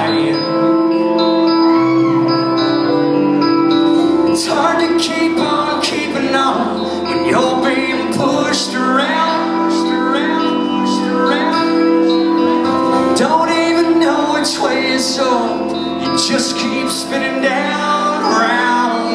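Live country band playing a song's instrumental intro: guitars and held keyboard notes over drums, with the bass and full band filling in about four seconds in.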